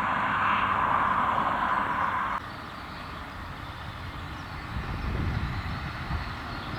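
Road and wind noise of the Audi S3 driving: a steady rushing hiss that cuts off abruptly about two and a half seconds in, giving way to a quieter low rumble that rises again near the end.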